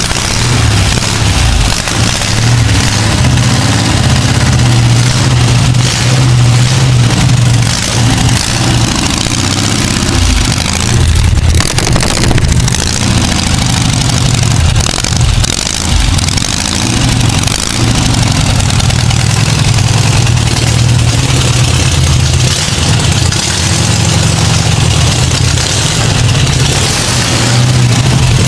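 Porsche 914's air-cooled engine running at idle after its first start in 15 years, its speed wavering, with a short dip about eleven seconds in.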